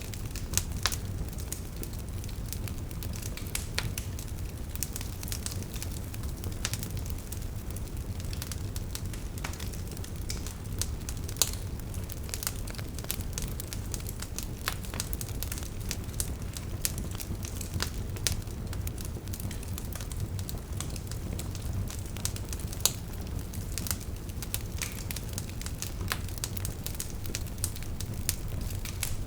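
Burning wood logs crackling: frequent, irregular sharp pops and snaps over a steady low rumble of the flames.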